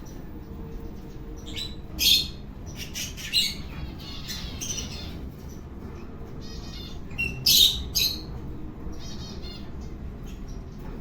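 Birds chirping and calling in short, high bursts and trills. The loudest calls come about two seconds in and again a little past the middle.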